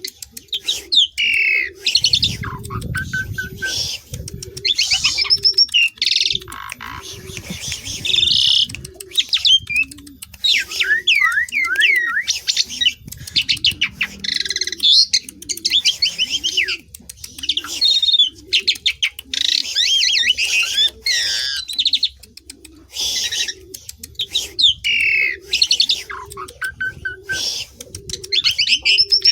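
Asian pied starling (jalak suren) singing in loud bursts of whistles, chatter and rapid clicks, over low cooing notes repeated about once a second.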